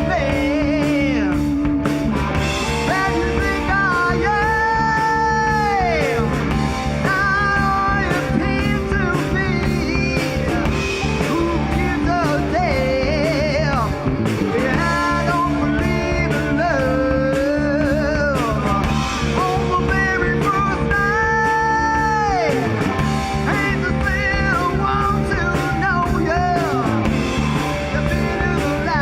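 Live rock band playing a song, with drums, bass, guitar and singing.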